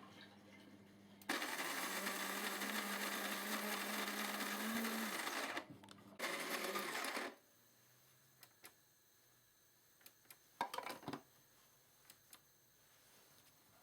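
De'Longhi KG79 burr coffee grinder running with a steady motor hum and dense grinding noise for about four seconds, stopping briefly, then running again for about a second. A few small clicks follow near the end.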